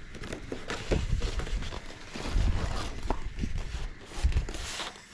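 Cardboard speaker box and its packing being handled: irregular rustles, scrapes and knocks, with dull low bumps.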